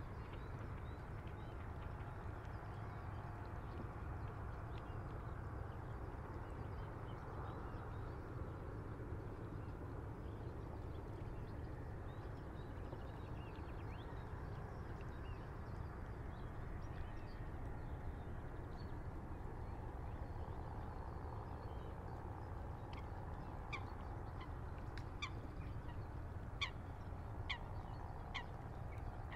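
River water washing against a breakwater, with a light breeze and a steady low rumble underneath. In the last six seconds a water-bird calls about nine times in short, sharp notes.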